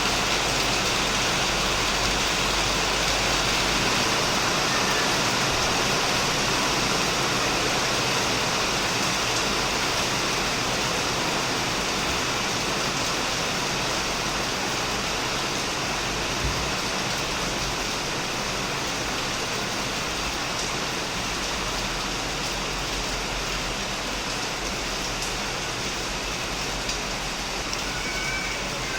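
Heavy rain falling steadily on a shed roof and plants: an even, dense hiss with no break.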